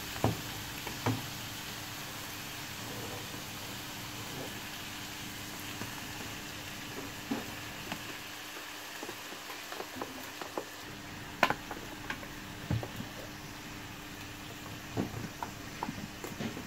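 Food frying in a pan, a steady sizzling hiss over a faint low hum, with a few sharp knocks of a utensil or container against the cookware, the loudest about two-thirds of the way through.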